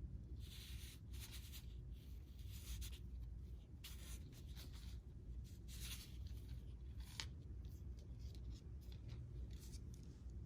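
Fishing line being handled and pulled through the fingers while a knot is tied to a hook: a series of short, dry swishes, with a sharp click about seven seconds in.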